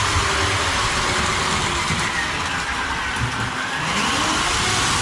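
Model steam locomotive running fast around a track layout: steady, continuous motor and wheel noise on the rails.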